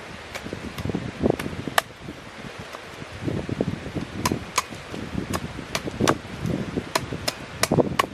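Strong wind buffeting the microphone in low, uneven gusts, with an irregular run of sharp clicks and light knocks, about two or three a second, that thicken in the second half.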